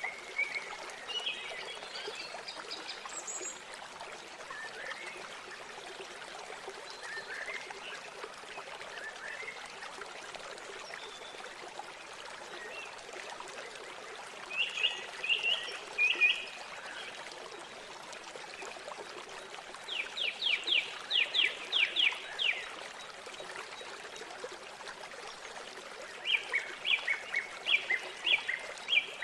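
River water flowing and trickling steadily, with birds calling over it in several short bursts of repeated notes, one of them a rapid run of sharp notes about two-thirds of the way through.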